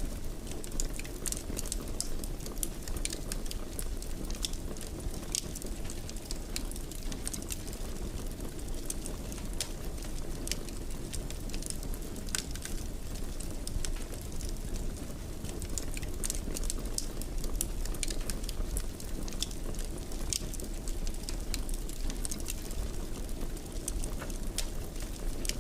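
Wood fire burning in a fireplace, crackling with frequent short, sharp pops over a steady low rumble of flame.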